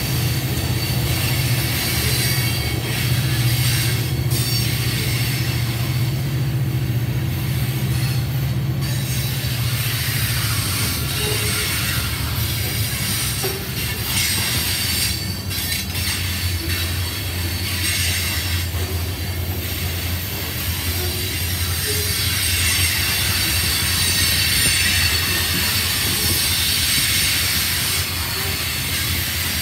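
Freight train of covered hopper cars rolling past steadily, a continuous low rumble of wheels on rail with high-pitched wheel squeal on the curve.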